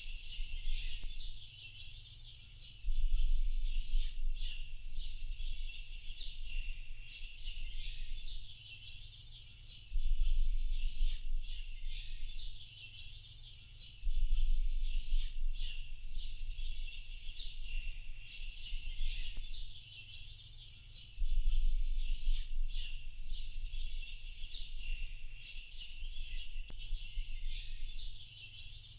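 Many small songbirds chirping and calling at once in a dense, continuous chorus. A deep low rumble comes and goes every several seconds under the birdsong.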